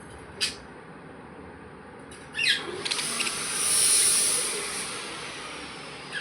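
Budgerigars giving short, sharp chirps: one about half a second in, another about two and a half seconds in, and one at the very end. Between the last two, a high hiss swells and fades over about two seconds and is the loudest sound.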